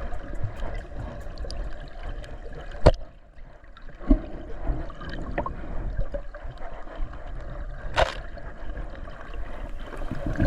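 Muffled water movement with scattered small clicks, and two sharp knocks, about three seconds in and again about eight seconds in.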